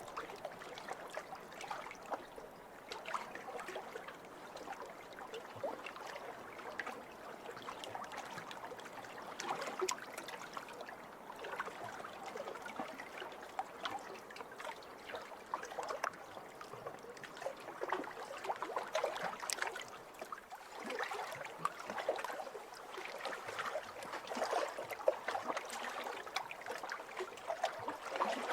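Small waves lapping over a pebble shore: a continuous trickling wash full of fine clicks and rattles of water running among the stones, swelling and easing every few seconds.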